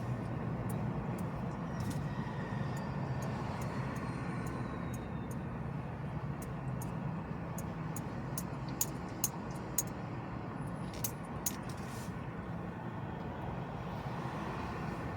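Steady road and engine noise of a car driving in city traffic, with scattered sharp clicks, the loudest of them bunched in the second half.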